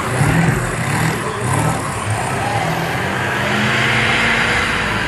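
Mud truck engines revving hard under load in a truck tug-of-war pull. The pitch rises and falls for the first few seconds, then holds steady about three seconds in.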